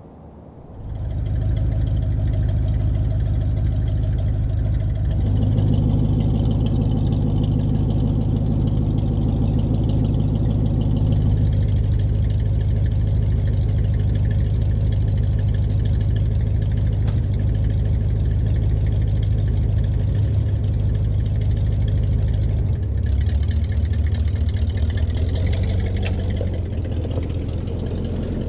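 1970 Cadillac Coupe DeVille's 472 cubic-inch V8 running at low, steady revs, coming in about a second in, with a shift in its tone a few seconds later and again near the end.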